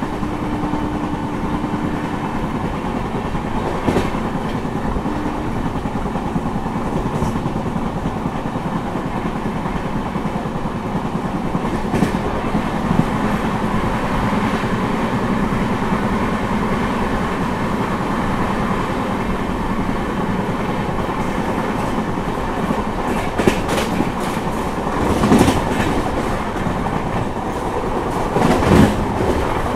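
Indian Railways LHB passenger coach running at speed, heard from on board: a steady rumble of wheels on rail, with occasional sharp clicks and a couple of louder clattering spells near the end as the wheels pass over rail joints or points.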